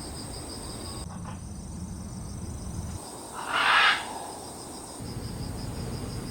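Crickets chirping in a steady fast pulsing trill, with a brief loud rustling rush a little after three seconds in.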